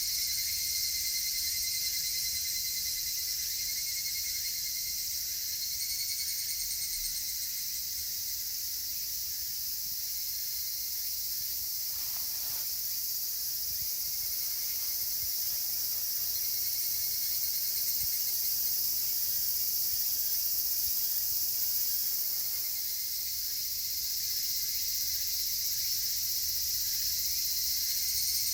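Summer chorus of Japanese cicadas, a dense, steady, high-pitched shrilling, with a thinner, pulsing call, typical of higurashi (evening cicadas), fading in and out every few seconds over it.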